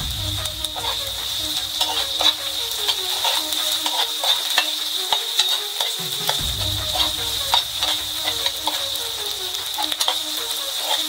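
Chopped onions and tomatoes sizzling in hot oil in a frying pan, stirred with a metal spatula that scrapes and clicks against the pan many times.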